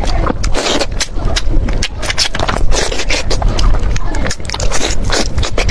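Close-miked chewing of chicken heads, with rapid irregular crunching and crackling of bone and cartilage.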